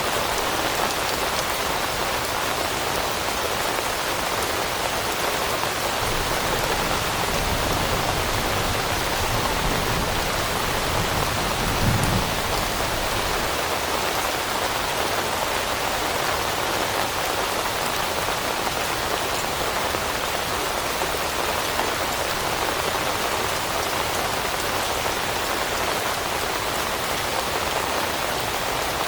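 Steady rain falling on leaves, an even hiss of drops. A low rumble swells in the middle and peaks briefly about twelve seconds in.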